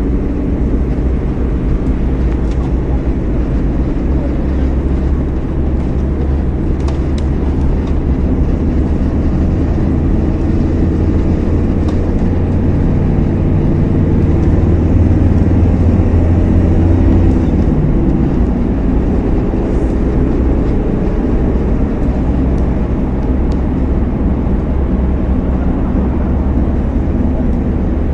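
Car engine and road noise, a steady low drone as the car drives along a street. The engine grows louder and a little higher from about halfway through, then settles back a few seconds later.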